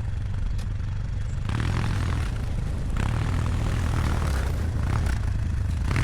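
ATV engine running with a steady low drone while dragging a round hay bale by chain, with a louder rushing noise added from about a second and a half in.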